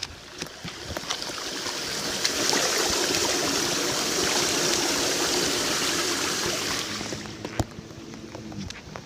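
Rainwater rushing into a storm sewer drain, a steady rush that swells over the first couple of seconds, holds, and fades away about seven seconds in.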